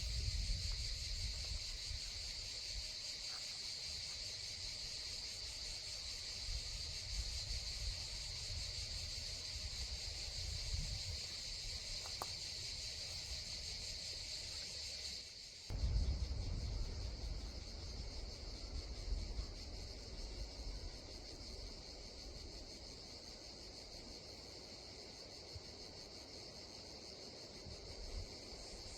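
Steady high-pitched chorus of insects chirring in summer woodland, over a low rumble. About halfway through the sound changes abruptly and the insect tone becomes thinner.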